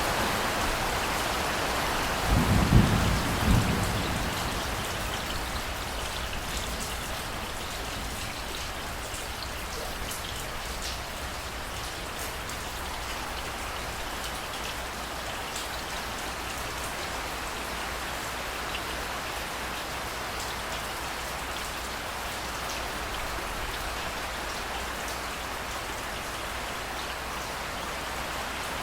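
Steady rain falling, with scattered drop ticks, and a short low rumble of thunder about two to four seconds in.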